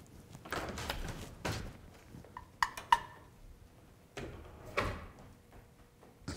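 A door being opened: rustling movement, two sharp metallic clicks of the latch a little over two and a half seconds in, more rustling, and a short thump at the end.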